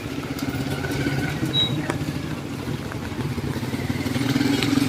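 Small motorcycle engine running steadily, a fast even putter that grows louder toward the end.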